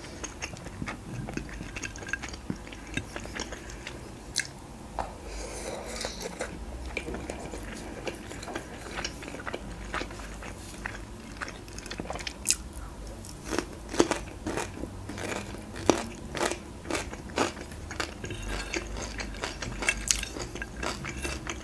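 Close-miked chewing of macaroni with ground meat: wet mouth clicks and smacks at an irregular pace, coming more often and louder in the second half.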